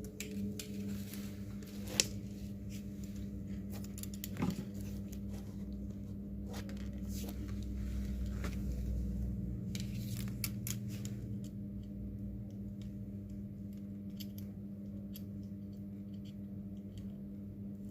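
Small clicks and scrapes of hand tools working on a smartphone during a display repair, over a steady low hum. A sharp click about two seconds in and another a couple of seconds later.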